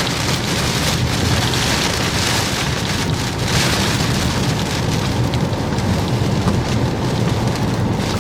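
Rain pattering steadily on a moving vehicle, heard from inside the cabin, over a constant low rumble of road and engine noise.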